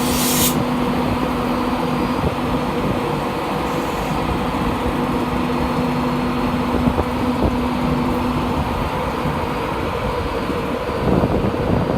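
A train at a station running with a steady hum and rumble. There is a brief hiss right at the start.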